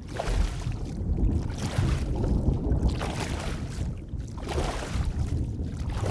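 Underwater ambience: a steady low rumble of moving water, with swells of whooshing water rising and falling every second or so.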